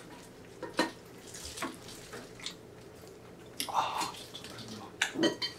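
Close-miked eating sounds: wet chewing of pork belly and noodles, with scattered sharp smacks and clicks, a few of them louder near the end.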